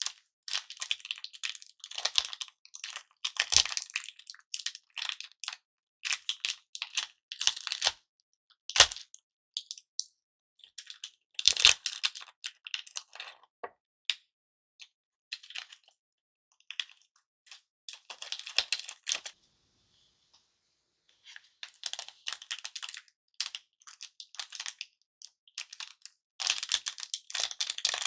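Hard-candy lollipops being cracked and the broken pieces handled: irregular bursts of sharp clicks and cracks, with a few heavier knocks about 3, 9 and 12 seconds in.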